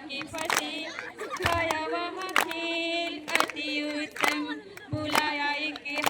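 Group of voices singing a Hindi children's counting song unaccompanied, with a steady hand clap about once a second.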